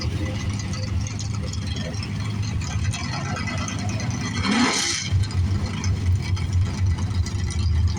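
Drag race car engine idling with a steady low rumble. About four and a half seconds in it gives one short rev that rises in pitch and drops back.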